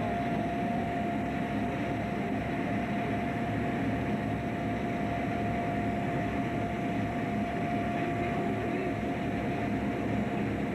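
Fishing boat's engine running steadily, heard on board, with an even drone and a steady high whine.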